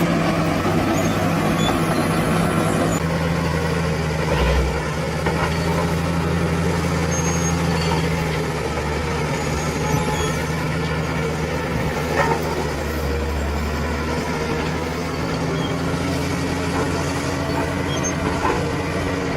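Diesel engine of a heavy earthmoving machine running steadily under work, its note shifting slightly a few seconds in, with a few short knocks.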